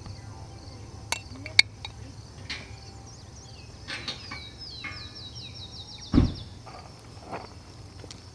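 A steady high-pitched chorus of insects trilling. Sharp clicks come about a second in, a quick run of short high chirps comes in the middle, and a dull thump about six seconds in is the loudest sound.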